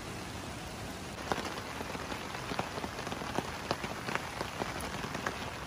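Light rain falling steadily. From about a second in, it is joined by irregular sharp crackles and pops from a small wood fire burning in a metal fire pit.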